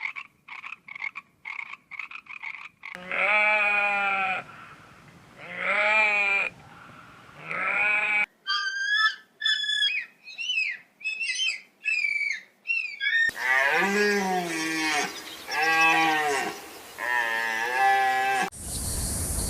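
A string of separate animal recordings spliced together: about three seconds of rapid croaking calls, then three long bleats, a run of short high squeaky calls, and three more bleats. A different, noisier sound cuts in near the end.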